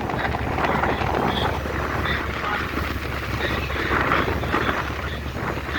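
A tour boat's engine running steadily, with wind blowing on the microphone.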